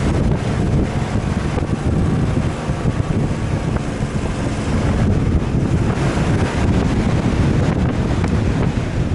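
Wind buffeting the microphone over the steady rumble of an off-road vehicle on the move.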